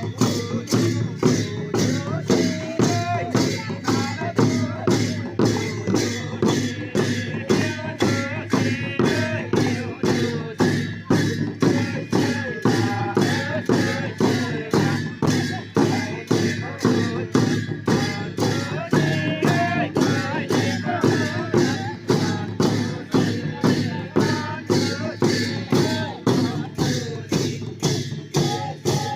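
Sakela dance music: a dhol drum and jhyamta cymbals beating a steady rhythm of about two strokes a second.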